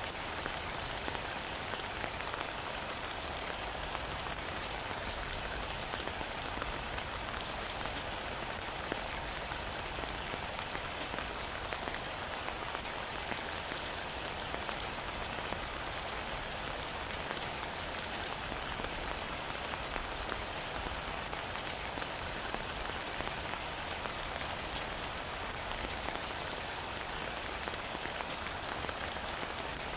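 Heavy rain falling steadily, a continuous even hiss with faint scattered drop ticks.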